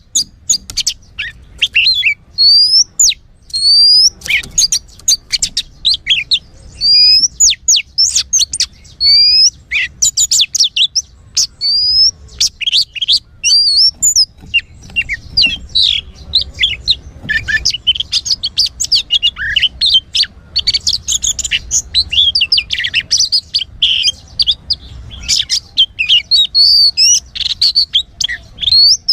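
Oriental magpie-robin (kacer) singing as a lure song: short rising whistled notes repeated over and over, turning about halfway into a denser, faster and more varied song.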